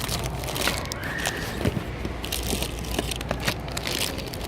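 Plastic packaging and small toys rustling and crinkling as they are handled, with scattered clicks and knocks over a steady low rumble.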